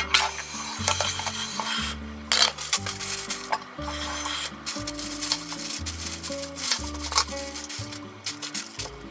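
Rubbing across the countertop in the first couple of seconds, then plastic packets of enoki mushrooms crinkling as they are handled and torn open near the end, over background music with a steady beat.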